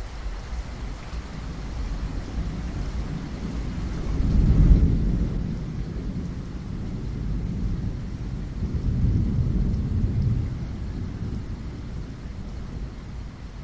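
Steady rain with low rolls of thunder, one swelling about four seconds in and another around nine seconds in.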